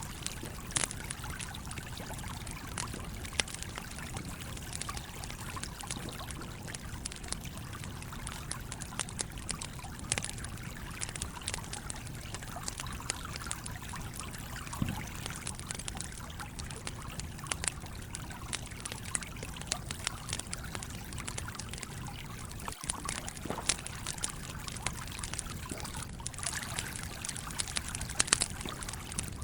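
Wood campfire crackling with scattered sharp pops over the steady rush of a flowing stream.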